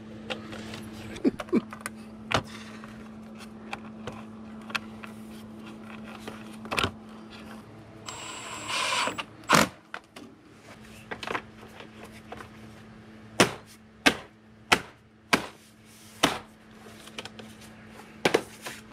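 Hand tools clicking and clinking on metal during suspension work, in scattered sharp knocks, louder and more frequent in the second half. A steady low hum runs underneath, and a short hiss comes about eight seconds in.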